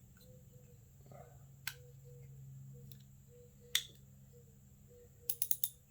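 Sharp metallic clicks of a 10mm socket wrench on a camshaft position actuator solenoid's retaining screw as it is being loosened: a single click, a louder one a couple of seconds later, then a quick run of four near the end.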